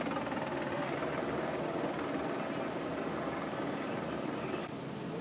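A steady engine drone with a constant noisy rush, stepping slightly quieter near the end.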